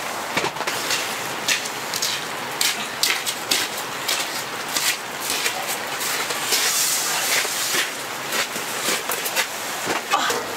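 Rain and sleet pattering steadily on tent fabric, with many scattered sharp taps and knocks, a cluster of them near the end.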